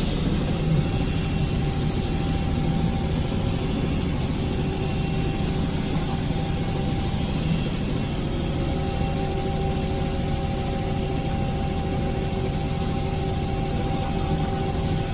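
Steady drone of a helicopter in flight, heard from inside the cabin: a constant rumble with a few unchanging tones over it.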